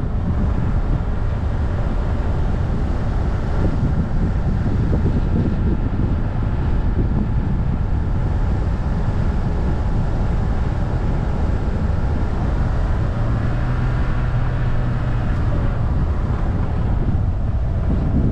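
Wind rushing over a bonnet-mounted camera, with tyre and road rumble, as a car coasts downhill. Underneath, the Subaru Forester's CB18 turbocharged flat-four engine hums steadily on engine braking, with a low steady tone standing out for a few seconds about two-thirds of the way in.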